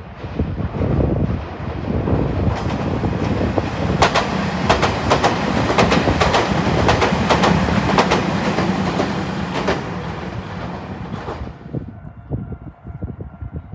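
An electric train passes, its wheels clicking over rail joints in a quick run of knocks over a steady low hum. The noise builds over the first few seconds and dies away near the end.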